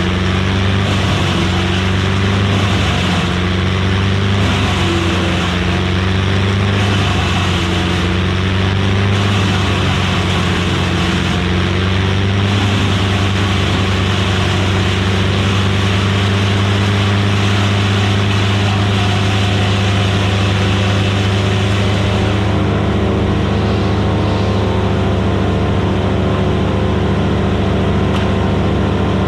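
Vermeer BC1000XL gas wood chipper running under load. The engine's pitch dips and recovers during roughly the first dozen seconds as wood is fed through, then holds steady, over a constant grinding hiss from the chipper.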